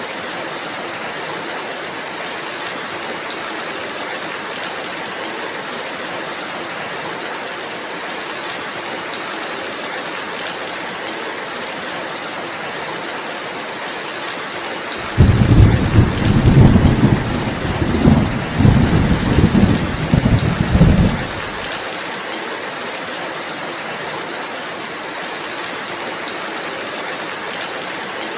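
Steady rainfall, with a roll of thunder about halfway through that starts suddenly and rumbles low and uneven for about six seconds before stopping.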